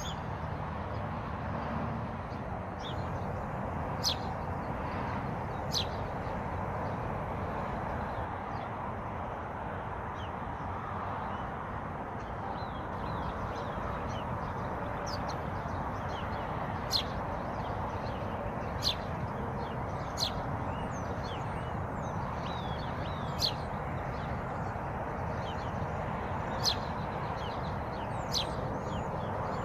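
Birds giving short, sharp chirps every few seconds, about eight in all, over a steady rushing background noise.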